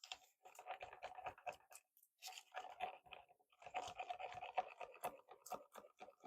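A stir stick scraping and clicking against the inside of a plastic cup as epoxy resin with mica powder is mixed, in many quick, uneven strokes.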